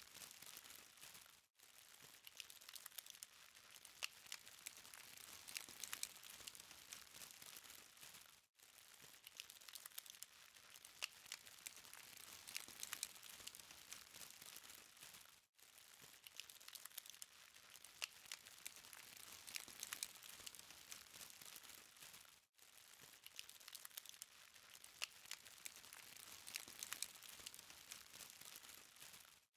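Charcoal fire crackling and hissing, with many small sharp pops. The sound cuts out briefly about every seven seconds.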